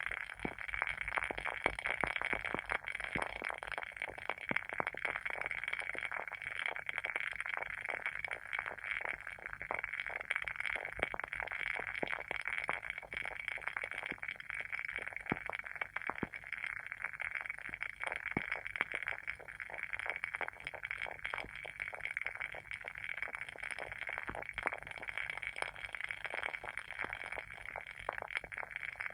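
WoodWick candle's wooden wick crackling as it burns: a steady stream of many small, irregular pops and snaps, like a tiny bonfire.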